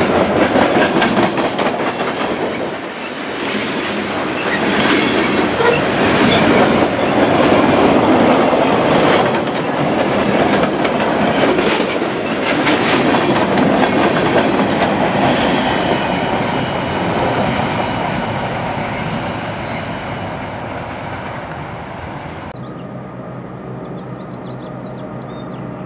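Freight train cars rolling past close by, their wheels clacking rhythmically over the rail joints. The sound eases off, then cuts abruptly near the end to a much quieter steady low hum.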